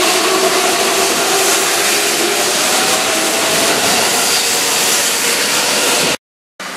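Keihan electric train running past a station platform at speed: a steady, loud rush of wheels on rail with a few faint low tones in it. It cuts off suddenly about six seconds in.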